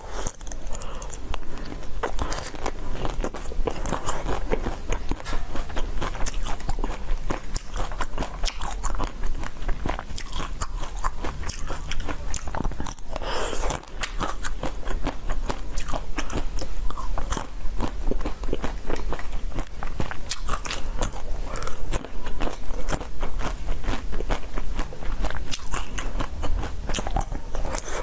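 Close-miked biting and chewing of purple jelly balls pulled off skewers: a dense run of crisp crunches and wet mouth clicks.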